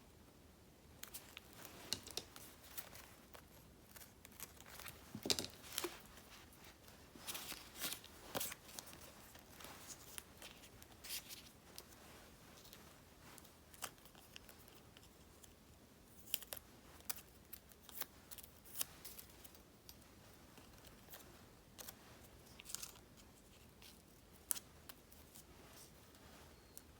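Scissors snipping through paper stickers in short, irregular crisp snips, with some paper handling and rustling between them.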